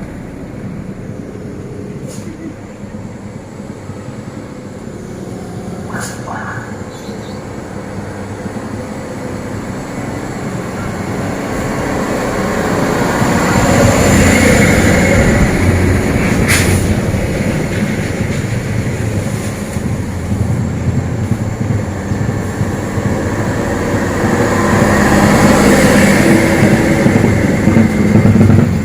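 Heavy tractor-trailer trucks loaded with heavy equipment passing on the road. The deep engine drone grows louder as each truck comes near, peaking about halfway through and again near the end, with a few sharp clacks along the way.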